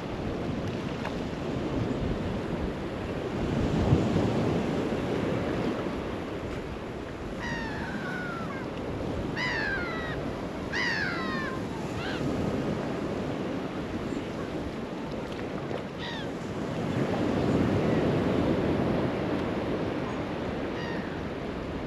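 Waves washing onto the shore, swelling about four seconds in and again near the end. Gulls call several times in the middle, each call short and falling in pitch.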